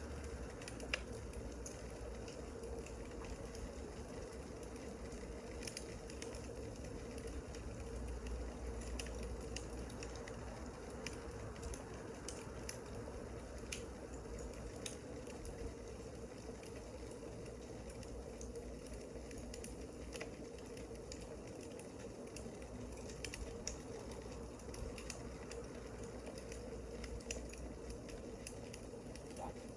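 Wood fire crackling: scattered sharp pops and ticks over a steady hiss, with a low steady hum underneath.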